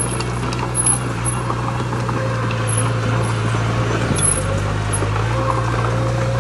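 Diesel engine of heavy earthmoving equipment running steadily under load, a deep even drone with a few faint knocks over it.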